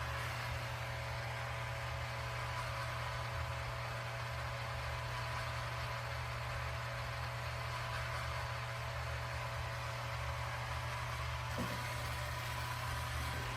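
Roomba Combo j7+ robot vacuum running, a steady motor whir with a constant low hum and a faint thin whine.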